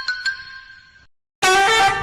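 A single bell-like ding that rings and fades away over about a second, followed by music starting abruptly about a second and a half in.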